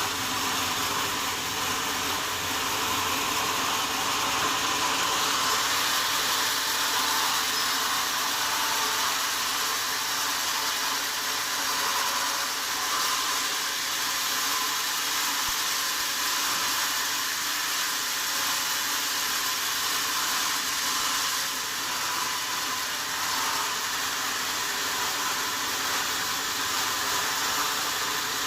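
Sawmill saw running steadily: a continuous, even, high hiss with no breaks or changes.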